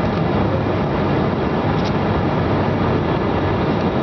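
Steady noise inside an airliner's passenger cabin in flight, the even rush of engines and airflow around the fuselage.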